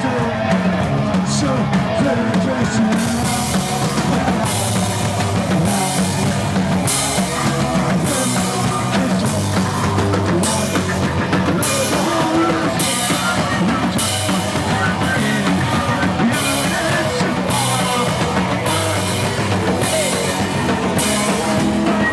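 Live rock band playing loud, with heavy drum-kit playing. From about three seconds in, a cymbal is struck about once a second.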